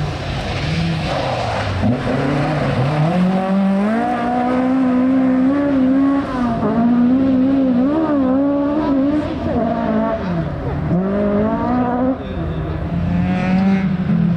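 Rally car engine revving hard along a gravel/tarmac stage. The pitch climbs and drops repeatedly with gear changes and lifts, with a deep drop about two seconds in and another about eleven seconds in.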